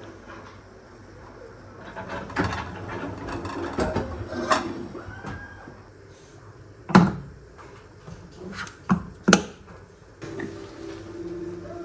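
Household handling sounds: clatter and rustle of objects being moved, then a sharp knock about seven seconds in and two more close together just after nine seconds. A steady hum starts near the end.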